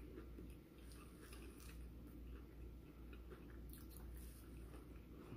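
Faint chewing of a mouthful of bacon cheeseburger, with scattered soft clicks of the mouth over a low steady hum.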